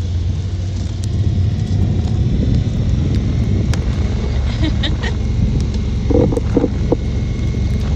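Side-by-side utility vehicle's engine running, a steady low rumble, with a few short higher-pitched sounds about six seconds in.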